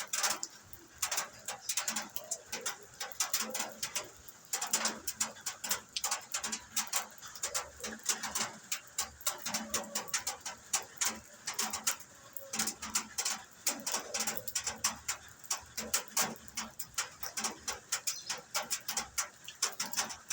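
Heavy rain, with large drops striking a hard surface close by as a dense, irregular patter of sharp clicks.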